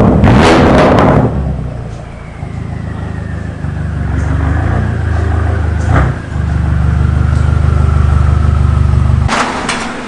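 BMW F90 M5's twin-turbo V8 through a straight-piped catback: a loud burst of acceleration at first, then a steady low exhaust drone while cruising, with one sharp crack about six seconds in. The drone cuts off suddenly near the end.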